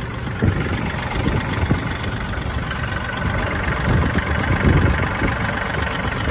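A John Deere tractor's Yanmar-built diesel engine idling steadily while it warms up.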